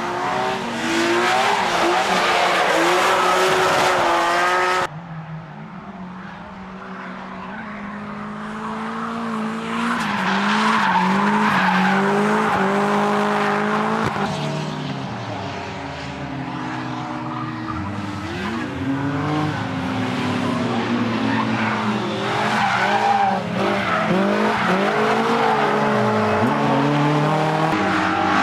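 Drifting cars' engines revving up and down hard with tyres skidding. The sound cuts off suddenly about five seconds in, then another car builds up, revving and sliding through the rest.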